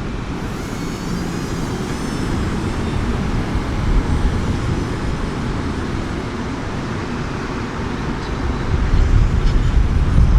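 Strong wind buffeting the microphone: a steady rushing noise with a heavy low rumble that swells louder near the end. In the first couple of seconds a faint, wavering high whine comes through, from the small electric motor of the TBS Chupito RC plane.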